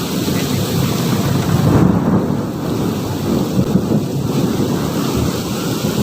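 Heavy rain pouring in a thunderstorm, over a continuous low rumble that swells about two seconds in.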